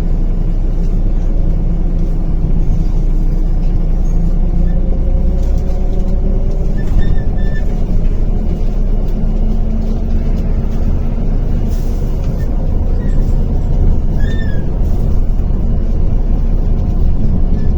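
MAZ-105 articulated city bus under way, heard from inside the cabin: a steady rumble of diesel engine and road noise.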